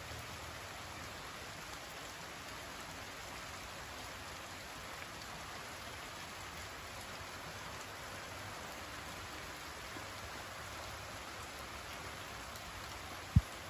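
Steady rain falling, an even hiss of drops. One sharp, low thump near the end.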